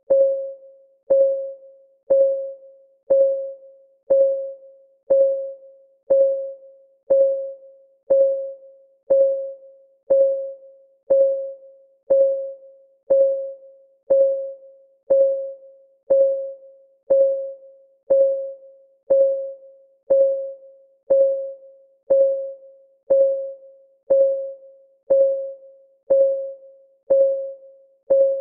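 Countdown timer's clock-ticking sound, one tick a second, steady and even. Each tick is a short pitched knock that dies away quickly.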